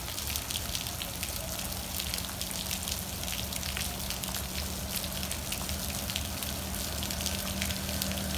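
Steady rain falling, with many small drops ticking close by, over a steady low hum that grows slightly louder toward the end.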